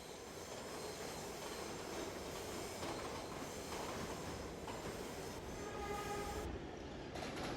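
New York City subway train running through the station, its rumble slowly growing louder, with a brief pitched whine about six seconds in.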